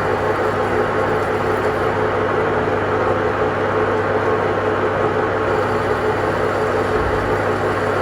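A machine running steadily with a constant hum and a dense, even noise over it, unchanging throughout.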